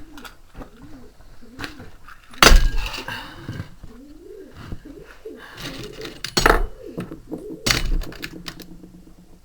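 Pigeons cooing repeatedly in the background, broken by loud sudden clatters and knocks, about two and a half seconds in (the loudest), around six and a half seconds and near eight seconds.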